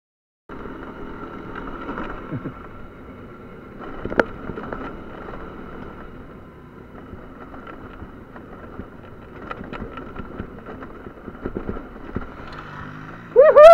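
Small motorcycle engine running on the move over a forest track, with wind on the microphone and a single click about four seconds in. Near the end there is a brief loud sound that rises and falls in pitch.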